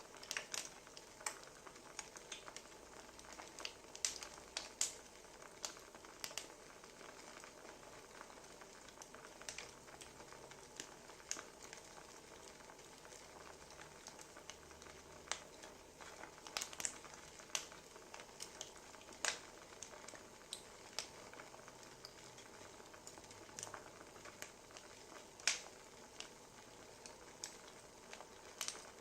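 A wood fire crackling, with irregular sharp pops and snaps over a faint steady hiss.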